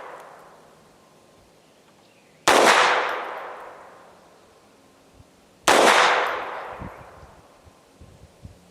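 Two shots from a FEG AP-MBP .32 ACP (7.65mm) semi-automatic pistol, about three seconds apart, each followed by a long echoing fade. The tail of an earlier shot dies away at the start.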